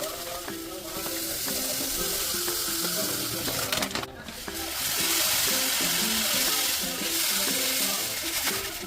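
Water running steadily from a kitchen tap, cutting off briefly about four seconds in, with background music underneath.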